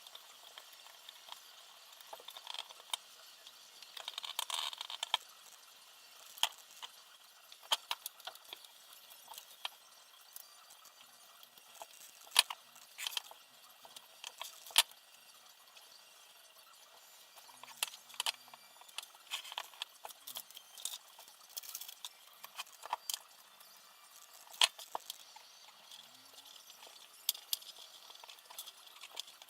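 Irregular light clicks, taps and small rattles, with a short rustle about four seconds in: small parts and tools being handled during assembly.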